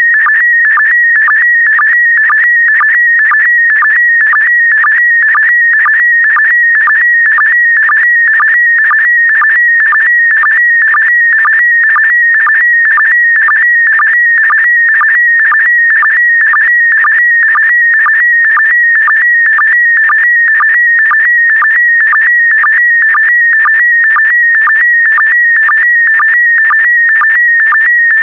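Slow-scan television (SSTV) signal in PD120 mode, sending an image line by line. It is a continuous, loud, warbling electronic tone that shifts rapidly in pitch with the picture's brightness, broken about twice a second by a short, lower sync pulse that gives it an even beat.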